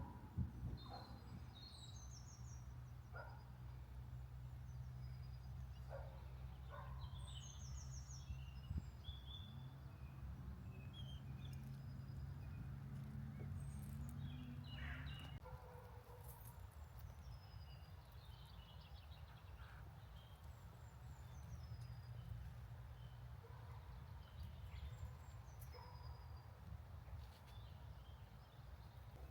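Several small birds singing and calling, short chirps and trills scattered throughout, over a faint low hum of distant road traffic that weakens about halfway through.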